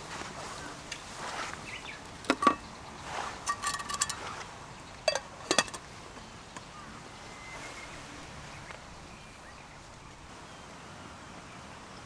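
Metal cooking gear clinking and knocking in a few short clusters, about two, four and five and a half seconds in, over a steady background of night insects chirping.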